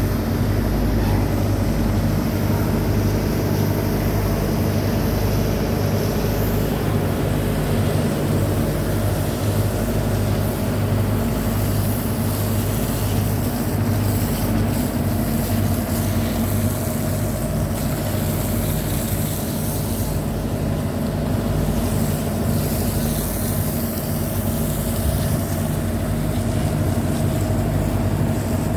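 A large engine running steadily with an even low drone, with a hiss above it that swells and fades.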